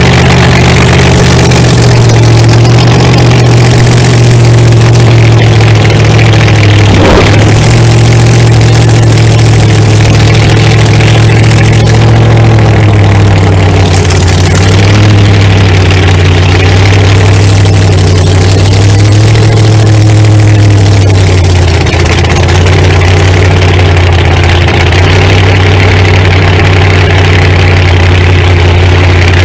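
Supercharged V8 of a rat-rod pickup idling loudly and steadily, its pitch wavering slightly now and then.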